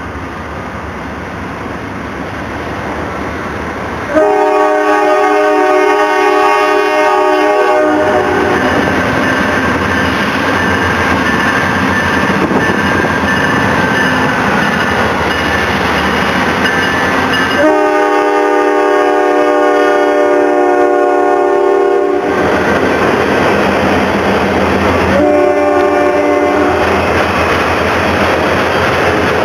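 Norfolk Southern GE Dash 9-40CW diesel locomotive approaching and passing, its 16-cylinder engine growing louder over the first few seconds. Its air horn then sounds two long blasts, a short one, and another long one beginning near the end, over the steady rolling clatter of the autorack cars' wheels on the rails.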